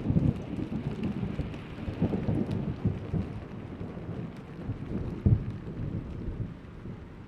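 Rolling thunder crackling and rumbling, loudest at the start and dying away, with a sharper crack about five seconds in, over steady rain falling.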